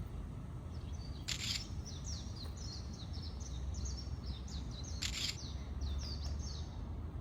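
A small bird singing a long run of quick, high chirps, each sliding down in pitch. Two short, harsh noises cut across it, about a second in and again about five seconds in.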